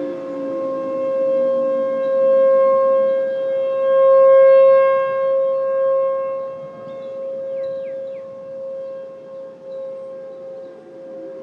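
Outdoor civil defense warning sirens sounding across town. One steady siren tone with overtones swells and fades as the rotating siren turns toward and away from the recorder. Other siren tones slide down in pitch near the start and again at the end, over a background hiss.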